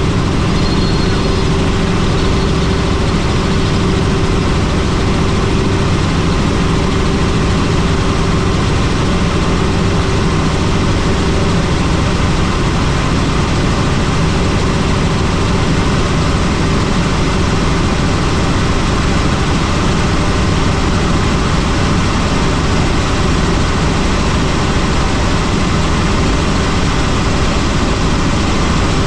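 Helicopter running: loud, steady engine and rotor noise with a steady hum through it.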